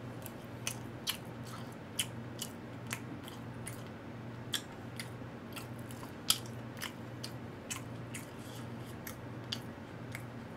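A person chewing food with his mouth closed, close to the microphone: irregular crisp clicks and small crunches a few times a second, over a steady low electrical hum.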